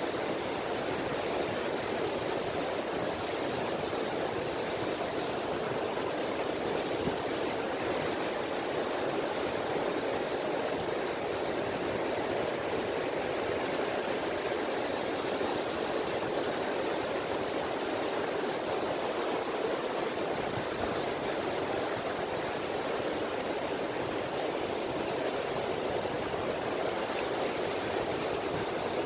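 Small, gentle sea waves lapping on a beach, making a steady, even wash of water with no single large breaker standing out.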